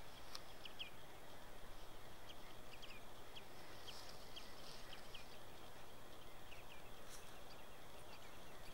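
Birds calling: short, high notes that fall in pitch, repeated irregularly about one or two times a second over a steady faint hiss.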